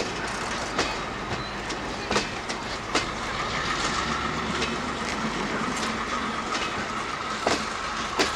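Diesel train hauled by a GM G22 locomotive running on the rails, its wheels clicking over rail joints at uneven intervals over a steady rumble. A thin, high, steady squeal comes in about halfway through.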